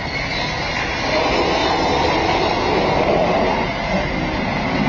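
4x4 engine pulling under load as the vehicle crawls over a steep arch ramp, getting louder about a second in.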